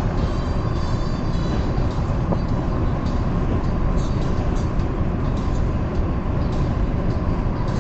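A car travelling along a highway: a steady rumble of tyres, engine and wind.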